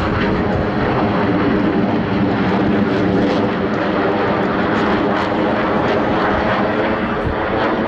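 Jet noise from the Blue Angels' delta formation of F/A-18 Super Hornets passing overhead, their twin turbofan engines making a steady, loud rush of sound that holds at one level throughout.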